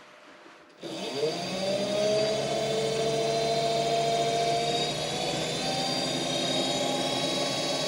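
Wood lathe switched on about a second in: its motor spins up with a rising whine, then runs steadily with a hum and several steady tones.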